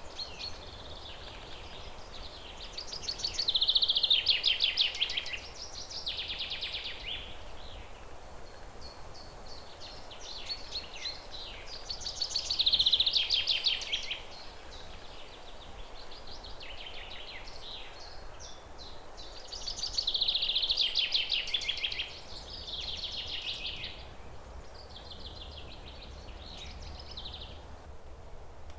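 Songbird singing: loud phrases of rapid, trilled high notes about every eight seconds, with softer chirping phrases in between, over a steady background hiss.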